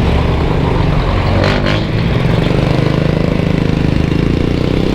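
KTM RC 200's single-cylinder engine running steadily at low speed in traffic, heard from the rider's position, with a fast even pulse to its sound and the hiss of surrounding traffic.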